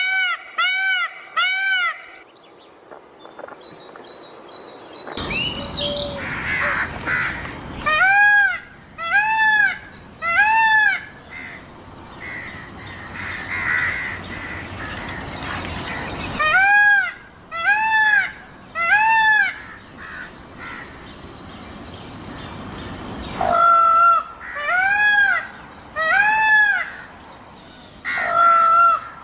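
Indian peafowl (peacock) calling: arched, rising-then-falling calls in bouts of three or four, about one a second, with pauses of several seconds between bouts. A steady high hiss fills the gaps.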